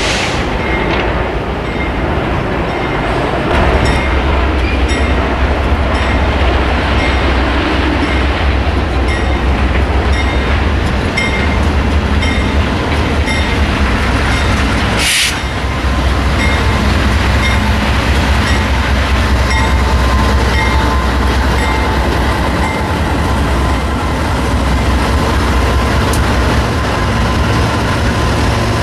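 A train rolling past on the rails, with a steady rumble of wheels and cars. A brief hiss cuts through about halfway.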